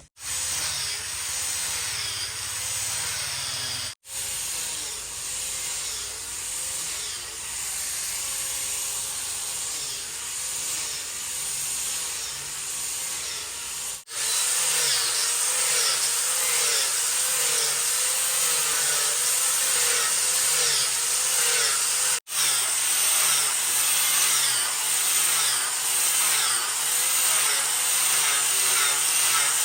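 Wood being sawn, a steady rhythmic sawing that breaks off abruptly and resumes three times.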